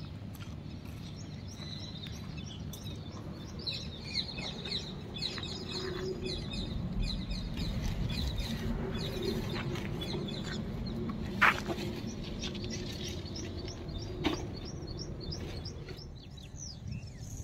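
Birds chirping: many short, rapid calls repeating throughout over a steady low background hum, with a couple of sharp clicks about two-thirds of the way in.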